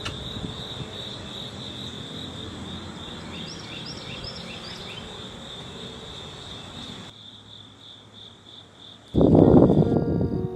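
Night chorus of crickets and other insects: a steady, pulsing high trill with repeated chirps over it. About seven seconds in it cuts to a fainter chorus, then a loud noisy rush near the end, with music coming in.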